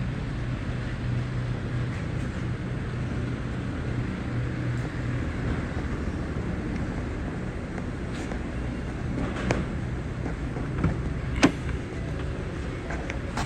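Ford 6.7L Power Stroke diesel V8 idling steadily with a low hum, with a couple of sharp knocks near the end.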